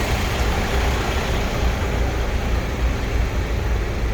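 Steady rumble of road traffic and vehicles, a continuous noisy wash with heavy low end.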